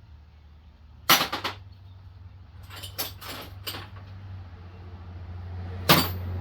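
Sharp metallic clanks and clicks of hand tools being picked up and handled, in a few quick clusters with a loud clank near the end, over a low steady hum that grows louder.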